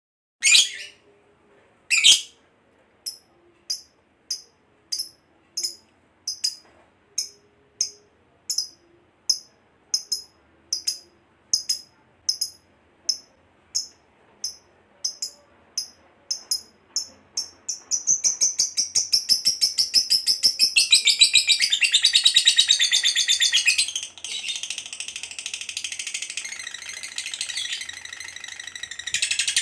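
Lovebird calling: two loud shrill calls, then a steady run of sharp high chirps at about one and a half a second. A little past the middle these run together into a long, rapid, continuous chattering trill, the 'ngekek panjang' song that hobbyists prize, with one short break.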